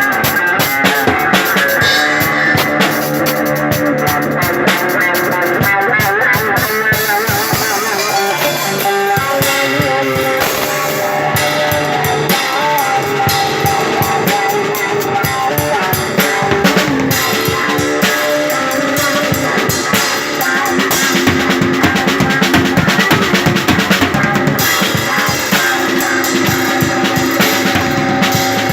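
Instrumental stretch of live rock: electric guitar playing over a full drum kit with steady bass drum and cymbal hits.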